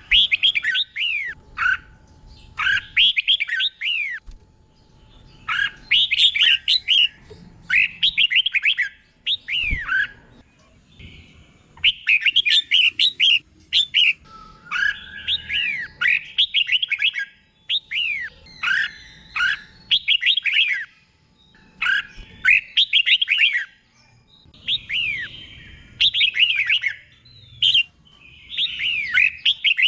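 Red-whiskered bulbul singing: short, bright warbled phrases of falling whistled notes, about a dozen, repeated with short gaps and often doubled back-to-back in pairs.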